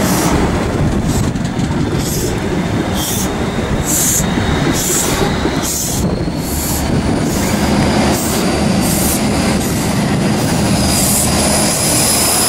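East Midlands Trains InterCity 125 (HST) running past, its Mark 3 coaches giving a steady rumble of wheels on rail with regular high hissing pulses about once a second. A thin high whine strengthens near the end as the rear Class 43 power car comes by.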